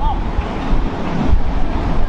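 Diesel pickup truck running with a loud, rough exhaust rumble, and wind buffeting the microphone.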